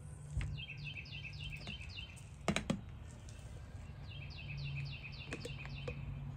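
A songbird sings two quick runs of about eight repeated falling notes each. A few sharp clicks come about two and a half seconds in, over a steady low hum.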